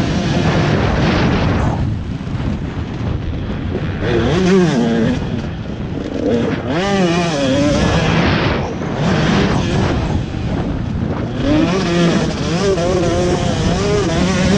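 Husqvarna 125 TC two-stroke motocross engine being ridden, its revs rising and falling again and again as the throttle opens and shuts, with a brief drop-off about two seconds in and another about eight seconds in.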